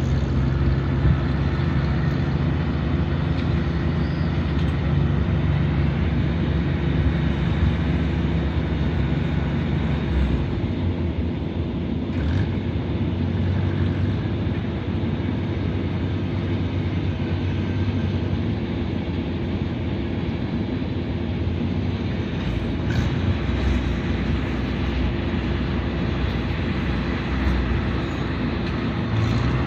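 A vehicle engine running steadily under way, its low tone shifting about ten seconds in.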